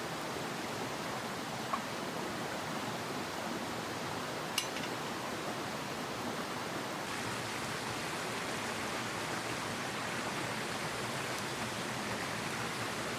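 Steady rushing of a mountain headwater stream, with two small clicks, about two seconds and four and a half seconds in.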